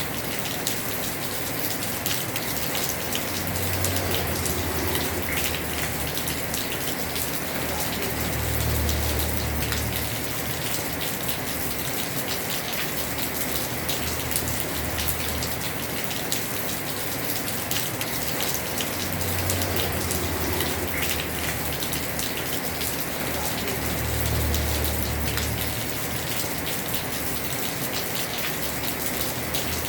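Heavy rain falling on a house roof: a dense, steady patter of drops. A low rumble swells and fades several times.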